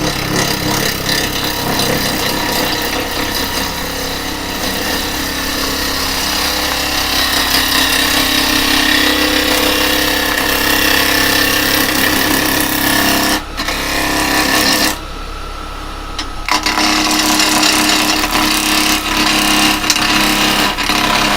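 Axminster 1628 woodturning lathe spinning a rough cherry blank at about 2000 RPM while a carbide chisel scrapes across it. The cut runs over gaps and end grain on a blank that is not yet round. Twice, about two thirds of the way through, the cutting stops briefly and only the lathe's steady hum is left.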